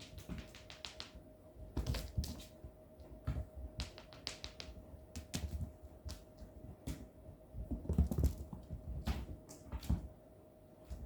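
Cats playing with a toy: irregular light taps and clicks with soft thumps of paws and bodies on the floor, busiest about two seconds in and again near eight seconds.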